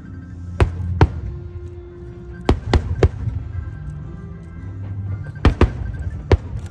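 Aerial fireworks shells bursting: about eight sharp bangs, some in quick pairs, over show music playing underneath.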